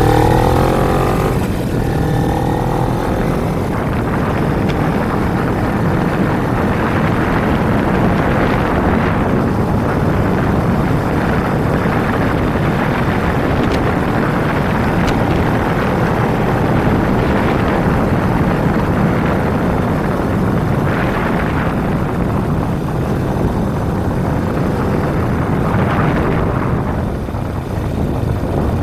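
Kawasaki Ninja 250 motorcycle riding: the engine's pitch glides through a gear change in the first two seconds. After that a steady rush of wind on the microphone mixes with the engine at cruising speed.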